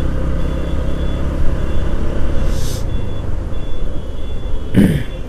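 Road noise while riding a motorcycle in traffic: a steady low rumble of engine and road, with a short hiss about two and a half seconds in and a brief sound near the end.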